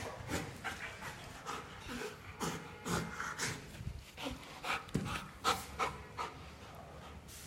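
A dog panting: quick, irregular short breaths.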